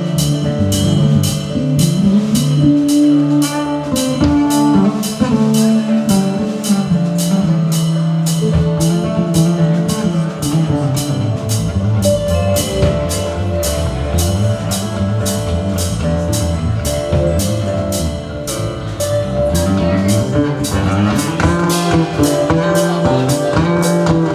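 Live country band playing an instrumental passage: a drum kit keeps a steady, even beat under guitar and other pitched instruments.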